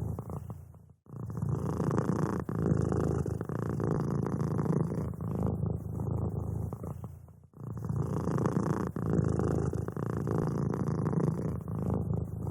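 Domestic cat purring close to the microphone, a continuous rumble broken by brief pauses about a second in and again about seven and a half seconds in.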